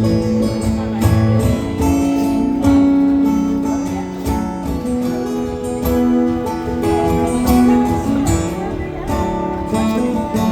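Live acoustic guitar strumming chords in the instrumental intro of a song, with ringing sustained notes.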